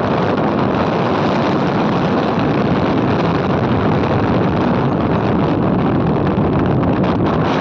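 Steady, loud rush of wind buffeting the microphone on a moving motorcycle, with the ride's road and engine noise blended in underneath.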